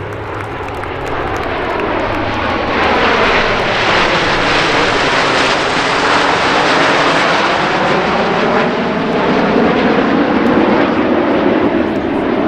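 Snowbirds' CT-114 Tutor jets flying past in formation. The jet roar builds over the first few seconds, and a whine drops in pitch as the aircraft go by.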